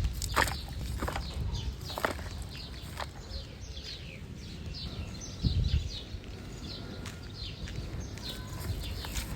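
Small birds chirping, many short falling notes repeated throughout, over a low outdoor rumble. Scattered sharp clicks and a dull thump about five and a half seconds in, from handling.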